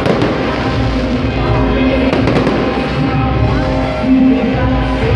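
Loud music from a sound system, with fireworks bangs: one near the start and a quick cluster about two seconds in.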